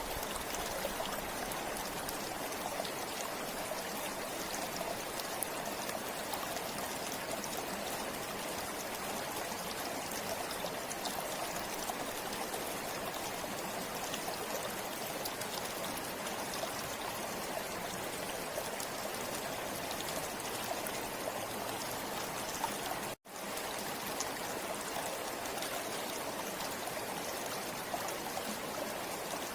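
Forest river water flowing steadily. The sound cuts out completely for a split second about two-thirds of the way through.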